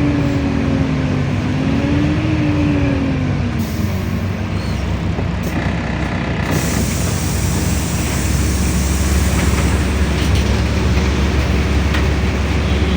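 Inside a LiAZ-5292 low-floor city bus under way: the engine and drivetrain run with a wavering whine that rises and falls over the first few seconds, then a heavier low rumble builds from about halfway as the bus gathers speed.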